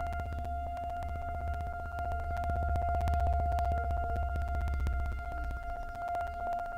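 Memorial Day siren sounding one steady, unwavering tone over a low rumble: the standing remembrance siren.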